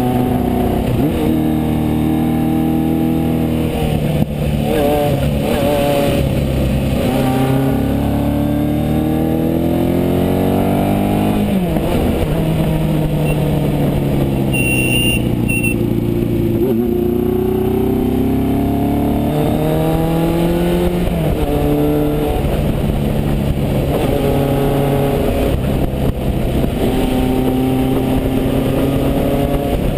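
1974 Honda CB550 Four's air-cooled inline-four engine through an aftermarket MotoGP Werks exhaust, under way. The revs climb and drop back at gear changes several times, then settle into a steady cruise near the end.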